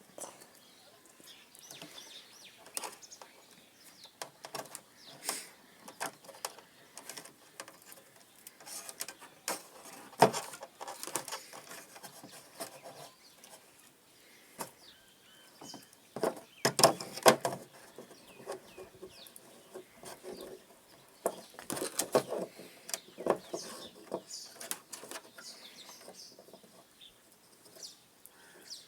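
Irregular clicks and knocks of hand work on electrical wiring for a washing machine connection, with clusters of louder knocks about a third of the way in, just past halfway and again a little later. Birds chirp in the background.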